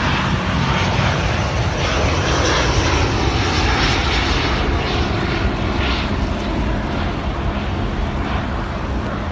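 Jet airliner engines, the Airbus A330neo's Rolls-Royce Trent 7000 turbofans, running at high power: a loud, steady rush with a deep rumble, easing a little toward the end.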